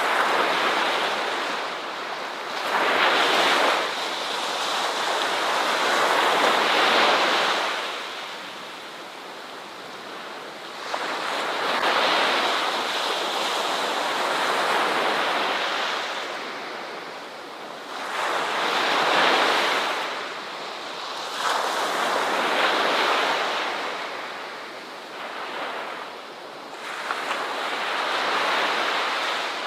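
Ocean surf: waves breaking and washing in, the rush swelling and ebbing every few seconds.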